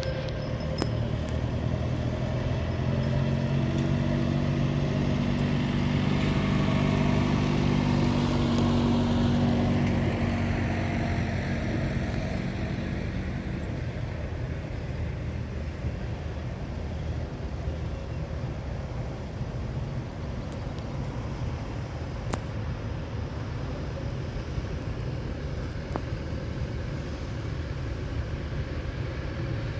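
Tractor engine running as it passes, growing louder to a peak about eight seconds in and then fading away, over a steady low rumble of other engines running.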